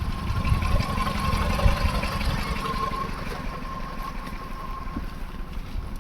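Car engine idling: a steady low rumble with a faint steady whine above it.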